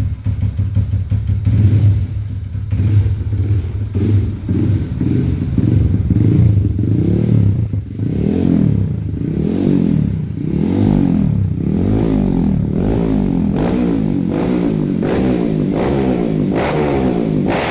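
Bored-up Honda CRF150's single-cylinder four-stroke engine running through its exhaust. It idles steadily at first, then the throttle is blipped over and over, about once a second, with the revs rising and falling more quickly near the end.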